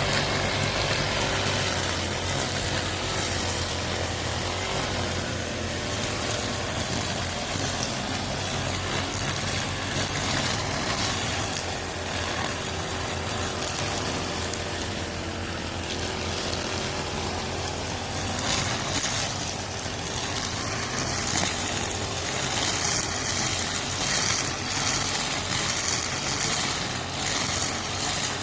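Engine-driven brush cutter running steadily.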